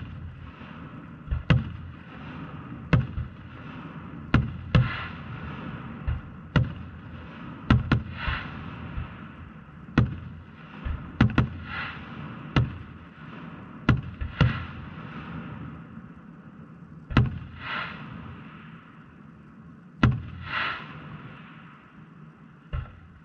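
Aerial firework shells bursting in a steady run of sharp booms, about one every second or two, several of them followed by a brief crackle. The booms thin out over the last few seconds.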